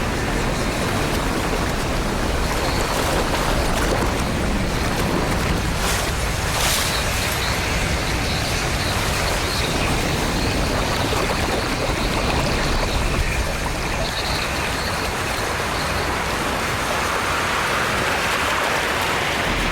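Steady rushing noise of wind and churning water, with a couple of brief crackles about six to seven seconds in.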